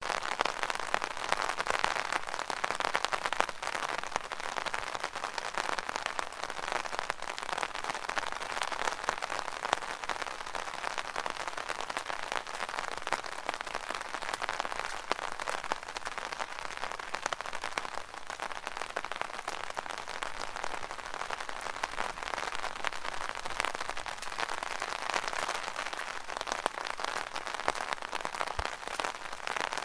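Rain falling on an umbrella canopy, heard from underneath: a dense, steady stream of fine drop hits over an even hiss.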